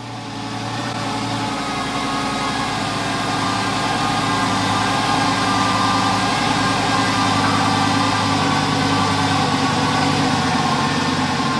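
Lamborghini Gallardo V10 engine idling after its first start since a crankshaft seal replacement, growing louder over the first couple of seconds and then running steadily.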